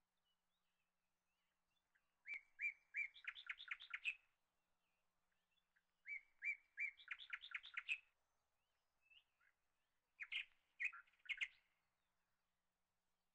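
A small bird singing three short phrases, each a few spaced chirps running into a quick trill, with quiet gaps between.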